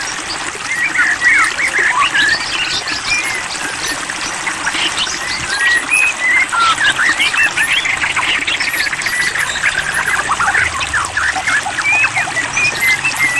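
White-rumped shama (murai batu) singing a continuous, varied stream of quick chirps and whistles, with a fast trill around the middle, over a steady background of trickling water.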